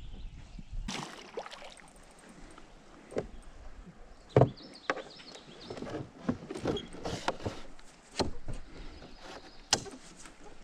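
Irregular knocks and clunks against a small boat, about eight sharp hits scattered over the stretch, the loudest about four and a half seconds in.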